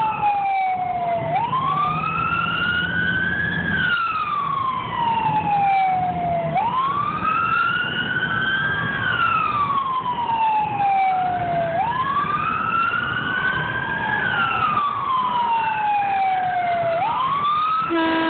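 Emergency vehicle siren on a slow wail: the pitch climbs for a couple of seconds, then falls back, repeating about every five seconds. A fainter second wail on its own cycle overlaps it. It is loud.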